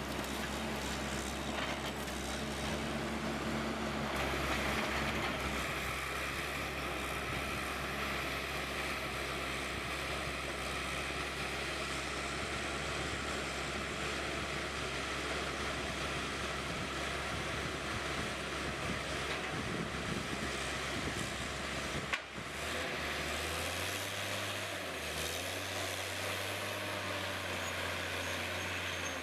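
Heavy machinery engine running steadily. About 22 seconds in it cuts abruptly to a different, lower engine drone.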